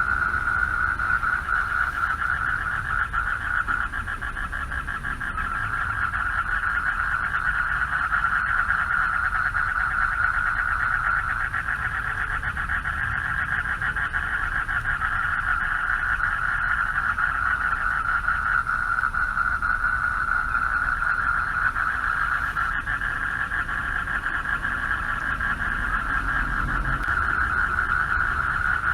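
A chorus of male frogs calling for mates at a pond, many rapid pulsing calls merging into one continuous trilling drone that holds steady throughout. A low rumble runs underneath.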